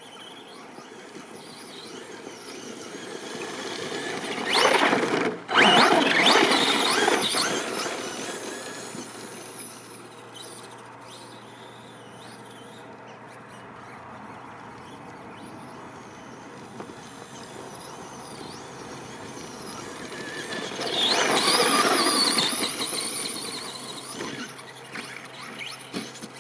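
The brushless electric motor of an RC monster truck (3652-size 4000KV on a 2S LiPo) whines up and down in pitch as the truck is throttled hard. There are two loud runs, about five seconds in and again about twenty-one seconds in, with a brief cut in the sound at about five and a half seconds.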